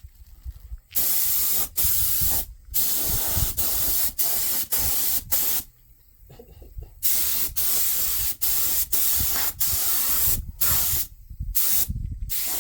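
Pressurised spray nozzle hissing in a string of about fifteen short bursts, each under a second, with a pause of about a second midway.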